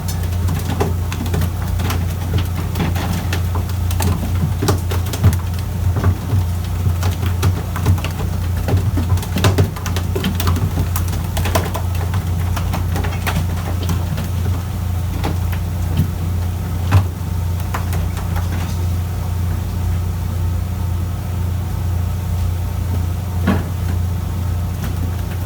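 Fishing boat's engine running with a steady low drone, overlaid by scattered sharp knocks and clicks, most of them in the first half.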